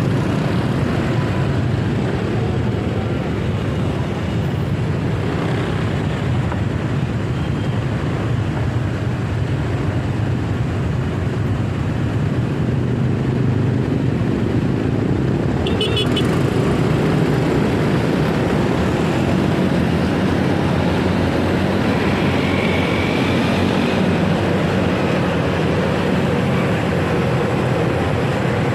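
Steady motorcycle running and road noise while riding in city traffic, with a short high beeping about halfway through.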